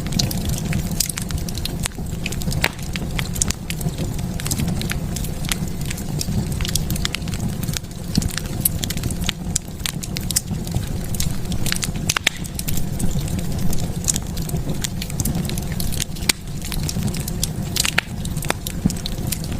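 Wood fire burning in a fireplace: a steady low rumble of flame with frequent irregular crackles and pops.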